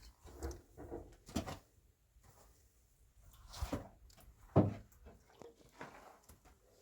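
A few scattered knocks and thumps, the loudest a little past halfway.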